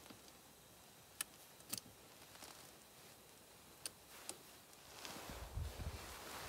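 Scattered sharp clicks and light taps of hand tools being worked, with a short low rumble about five seconds in.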